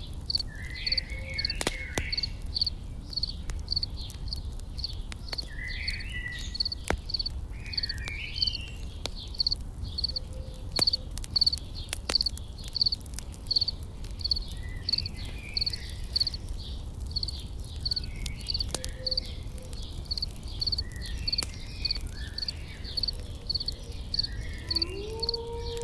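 Insects chirping in a steady, even rhythm of about two high chirps a second, with scattered short bird chirps and the sharp crackles of a campfire over a low rumble. A low sliding tone comes in near the end.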